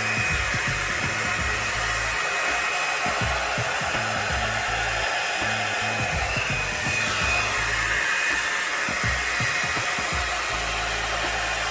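Revlon One-Step hot air brush blowing steadily on its low setting: an even rush of air with a thin whine from the fan motor, as it is drawn through damp hair.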